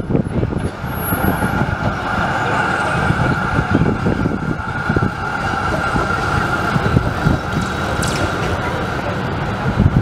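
Busy city street with trams and traffic: a steady low rumble under a held high-pitched whine that builds about a second in and fades near the end.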